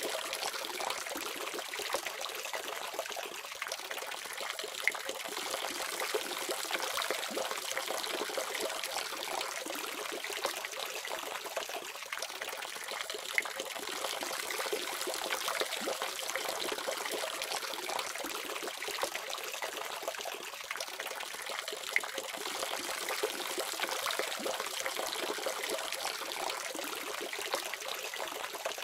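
Water running steadily from a faucet, a continuous splashing stream with occasional small drips and ticks.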